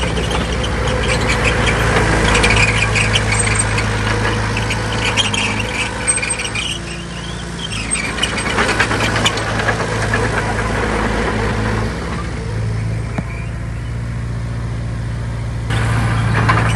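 Heavy diesel earthmoving machinery working: a steady low engine drone with irregular metallic clanking and squeaking over it, getting louder near the end.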